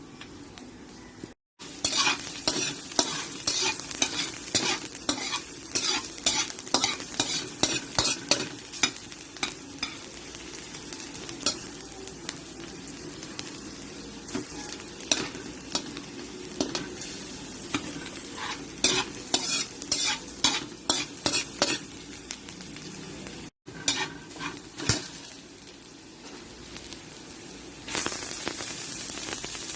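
Food sizzling in a hot pan while a utensil stirs it, with frequent sharp clacks of the utensil against the pan. The stirring clacks thin out after about two thirds of the way, and the sizzle grows louder near the end.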